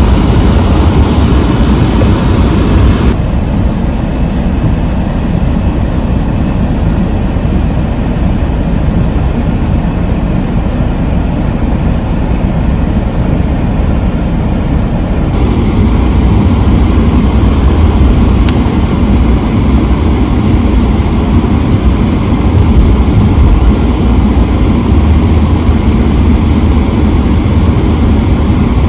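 Steady low rumble of a car driving, road and engine noise heard from inside the cabin. The hiss above the rumble steps down a few seconds in and comes back about halfway through.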